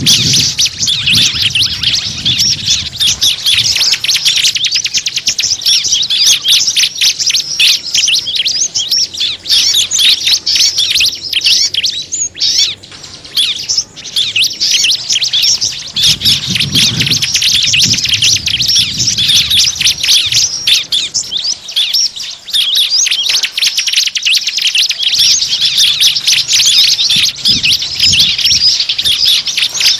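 A dense chorus of many small birds chirping rapidly and without pause, high-pitched and busy, thinning briefly near the middle. This is a bird-lure recording used to call small birds in.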